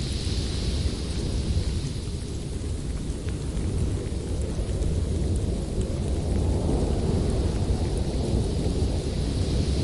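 Howling winter wind: a steady deep rumble under a hissing rush, with a high whistle near the start and end and a gust swelling about six seconds in.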